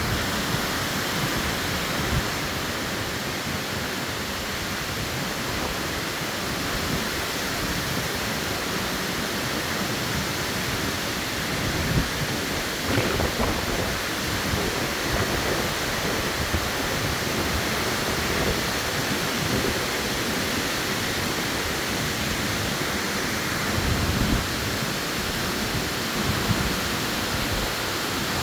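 Tropical-storm wind rushing steadily through the trees, with stronger gusts now and then that buffet the microphone.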